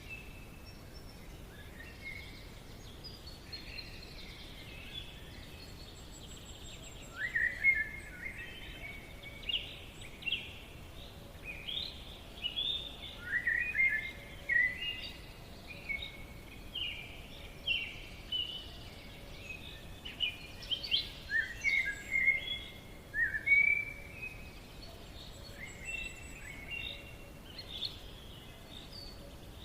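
Forest birds singing: short phrases of quick, high chirping notes that come every second or two after a quieter first few seconds, over a steady faint hiss of background noise.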